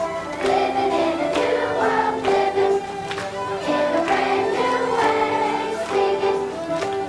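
A children's choir singing a song, holding and moving between sustained notes in phrases.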